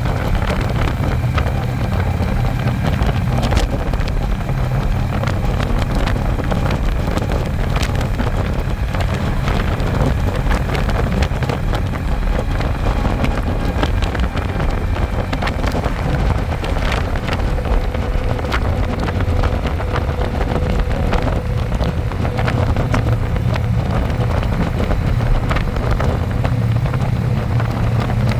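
Harley-Davidson Electra Glide's V-twin engine running steadily with the bike under way, with wind rushing over the microphone.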